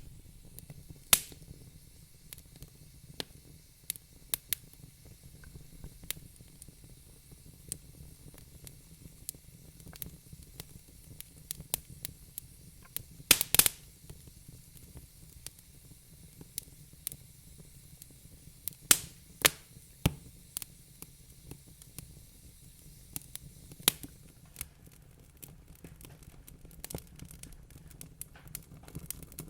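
Fireplace fire crackling: irregular sharp pops and snaps over a steady low rumble, with the loudest cluster of pops about halfway through and another a little later.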